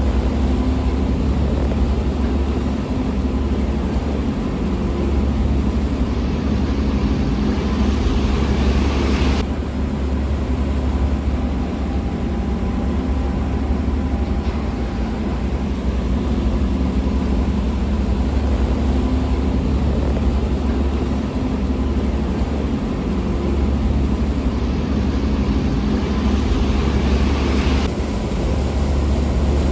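Harbour ferry's engines droning steadily with a deep rumble and low hum, under a constant hiss. The hiss changes abruptly twice, about nine seconds in and near the end.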